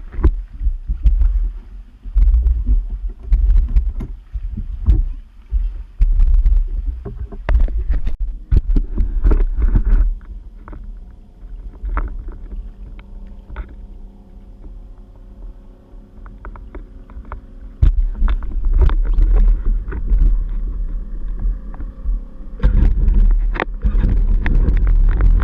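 Yamaha Waveblaster personal watercraft with a ported Yamaha 701 two-stroke twin and Riva pipe running on the water, with heavy wind buffeting and water knocks on the microphone. In the middle it goes quieter for several seconds and the engine's steady tone comes through, then it gets loud again.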